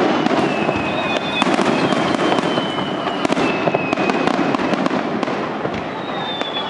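Aerial firework shells bursting overhead in quick succession: a dense run of sharp bangs and crackles over a continuous hiss of sparkling stars.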